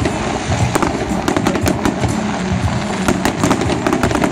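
Fireworks display: aerial shells bursting overhead, a dense run of crackles and sharp bangs in quick succession.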